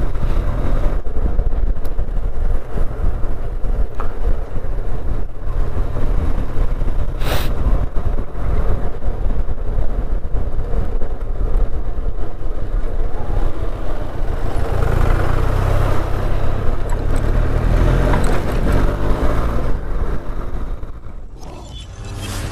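Motorcycle running at road speed, with a heavy, steady low rumble of wind on the rider's microphone and a single sharp click about seven seconds in. The sound drops away shortly before the end.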